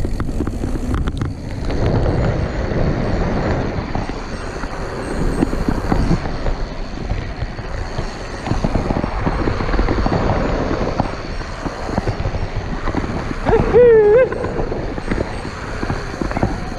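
Mountain bike being ridden along a forest trail: continuous wind rush and rumble with tyre and frame rattle over the bumps. A brief wavering pitched call sounds about three seconds before the end.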